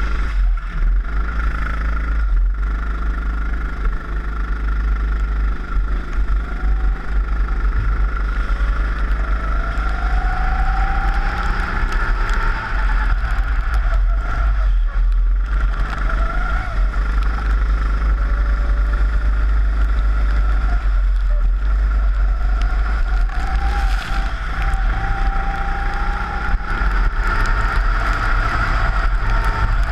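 Four-stroke rental kart engine running at speed, its pitch rising and falling as the kart accelerates and slows through corners, over a heavy low rumble of wind on the onboard camera.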